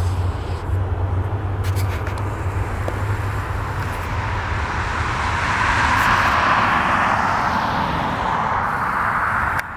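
A passing vehicle: a steady rushing noise that swells to a peak about six seconds in and then eases off.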